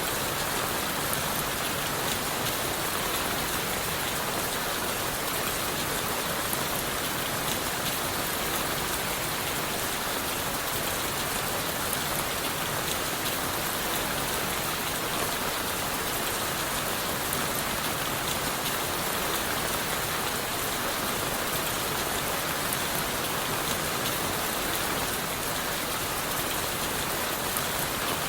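Steady rain falling on leaves, wood and the forest floor, a dense even patter with many small drop ticks.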